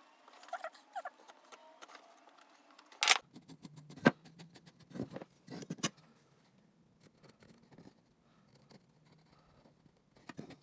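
Scattered light clicks and taps of a pencil and marking tools handled against pine timber on a workbench, with a few sharper knocks in the first half.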